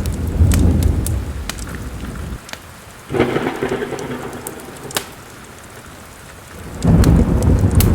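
Thunder rumbling over steady rain, with the crackle and pops of a wood fire in a fireplace. The rumble dies away after about two seconds, a rush of rain swells up about three seconds in, and a new roll of thunder starts near the end.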